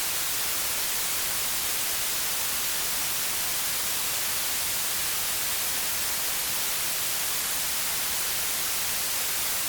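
Steady white noise: an even, unbroken hiss, strongest in the high frequencies, at a constant level.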